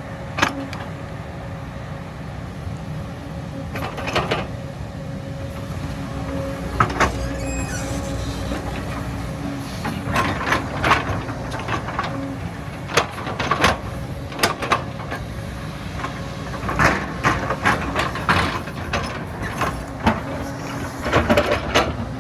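Excavator's diesel engine running steadily, with a string of sharp knocks and cracks, most of them in the second half.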